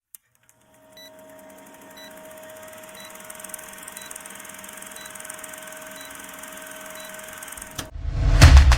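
Intro sound effect: a steady hum with a short high beep about once a second over a slowly rising hiss. Loud drum-heavy music begins near the end.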